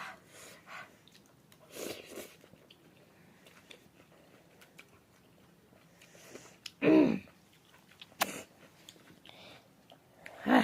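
Close-up chewing and eating sounds, with scattered small clicks and mouth smacks. About seven seconds in there is one short, loud vocal sound.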